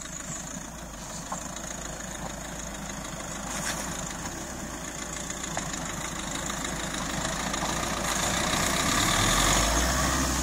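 Suzuki Jimny's engine running at low revs as the 4x4 crawls up a rutted dirt track. It grows steadily louder as the vehicle closes in and is loudest near the end.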